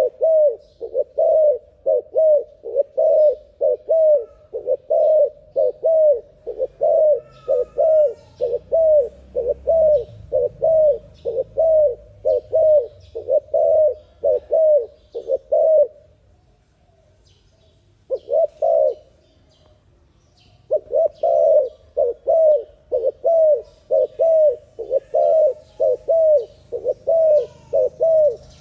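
Dove cooing call, sped up, with short coo notes repeating just under twice a second. It breaks off for about four seconds past the middle, with a single note in the gap, then resumes. Faint higher chirps sound in the background.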